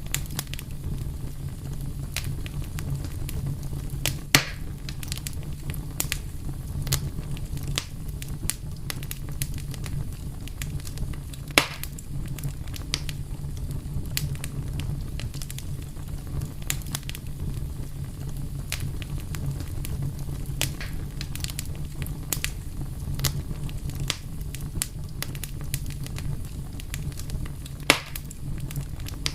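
Wood fire burning with a steady low rumble and frequent sharp crackles and pops, three louder snaps standing out.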